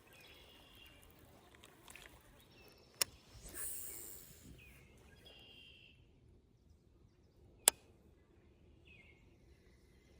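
Quiet outdoor background with two sharp clicks about four and a half seconds apart. A brief hiss follows just after the first click, and a few short high chirps sound in between.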